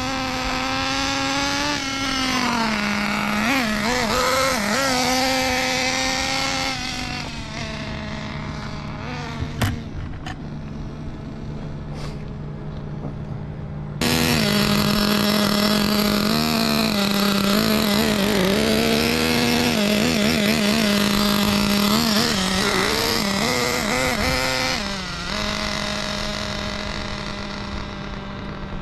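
Small nitro glow engine of an RC buggy (SH .21) running during break-in, ticking over steadily with short throttle blips that make the pitch rise and fall. The sound gets suddenly louder about halfway through and eases back a little near the end.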